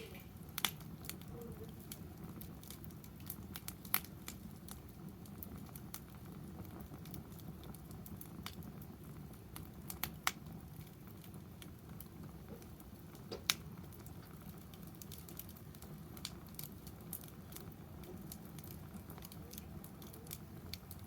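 Wood fire burning in a fire pit stand, crackling quietly with scattered sharp pops; the loudest pops come about 4, 10 and 13.5 seconds in.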